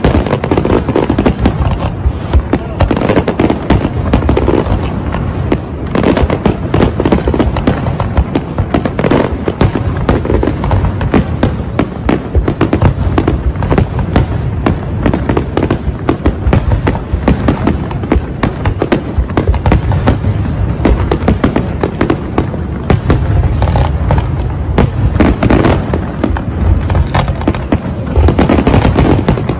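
Fireworks display: a dense, continuous barrage of aerial shells bursting and crackling, the bangs overlapping with hardly a gap.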